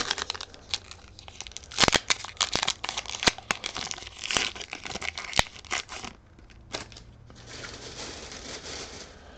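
Foil booster-pack wrapper crinkling and tearing open, a run of sharp crackles, followed near the end by a softer steady rustle as the cards are handled.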